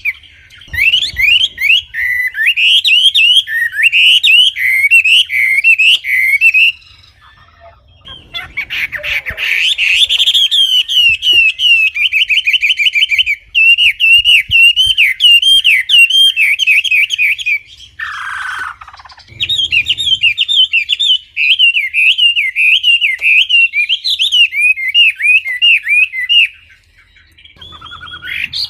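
A wambi songbird singing clearly: long runs of rapid, high chirps and trills. The song breaks off briefly about seven seconds in and again near the end, and there is a single falling note a little after halfway.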